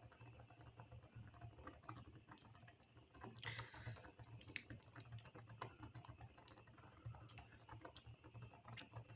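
Faint, irregular clicks and cracks of green parrots' beaks working on walnut shells, with a brief scratchy sound about three and a half seconds in, over a low steady hum.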